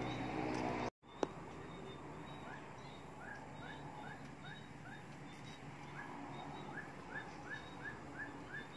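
A bird calling a short rising chirp over and over, about three a second, in two runs of several notes each. At the start a steady low hum breaks off suddenly, followed by one sharp click.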